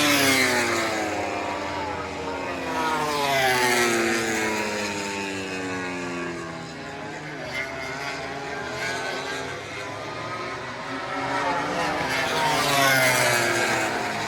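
MotoGP racing motorcycles passing at speed one after another, each engine note falling in pitch as it goes by. The loudest passes come near the start, about four seconds in and near the end.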